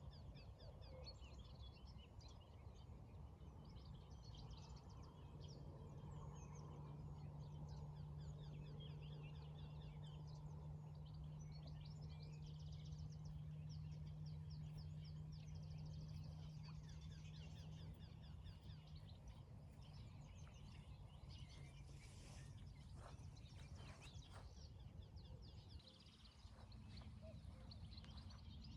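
Faint songbirds chirping and trilling, with many short, rapid calls, over a low background rumble. A steady low hum comes in for several seconds in the middle, then fades.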